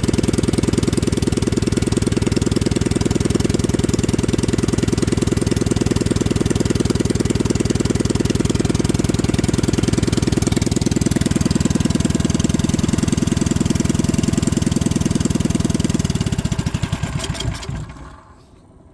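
Predator 212cc Hemi single-cylinder engine with an open straight pipe, idling steadily and running well on its freshly tuned carburettor. About sixteen seconds in it is shut off, and the firing slows and dies out over a couple of seconds.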